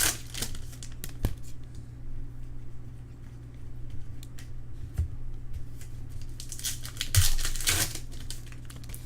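Trading card pack wrappers crinkling and tearing as packs are opened and cards handled, in bursts at the start and again about seven seconds in, with a few light clicks between.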